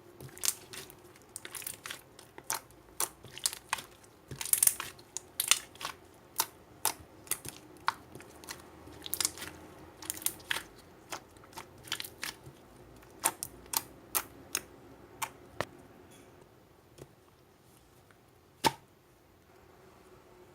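Slime being squeezed and poked by hand, giving off irregular sharp clicking pops, closely spaced for about fifteen seconds and then only a few scattered ones.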